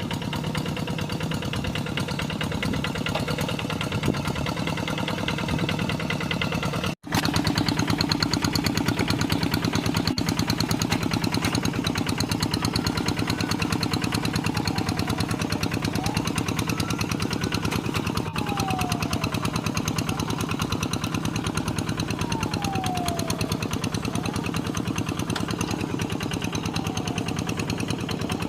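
Kubota RD85DI-2S single-cylinder diesel engine on a Quick G3000 hand tractor, running steadily with a fast, even chug. The sound drops out for an instant about seven seconds in, then carries on slightly louder.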